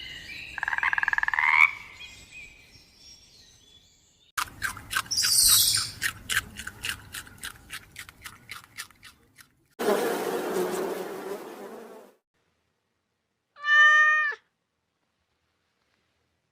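Several different animal calls in turn, cut one after another with silences between: a short rising call, then a long run of rapid clicking, then a rough noisy call, and near the end one short pitched call.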